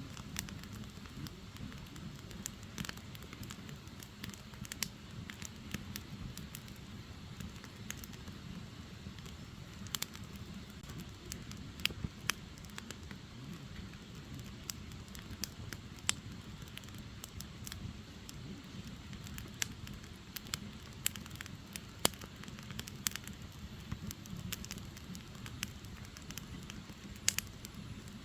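Firewood burning: a steady low rumble of flames with frequent sharp crackles and pops at irregular intervals, a few louder snaps standing out.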